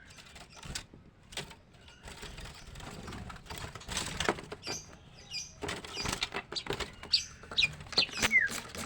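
White-rumped shamas scuffling in a cage, one attacking its own mate: a jumble of sharp clatters and knocks that grows busier, with short high squeaks and quick falling chirps in the second half.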